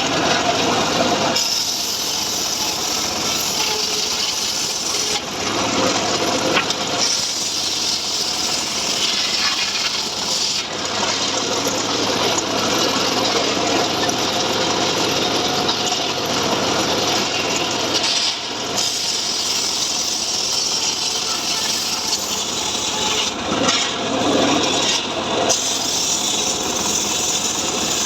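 Homemade sawmill saw cutting through a mahogany log, a steady rasping cut that swells and eases slightly.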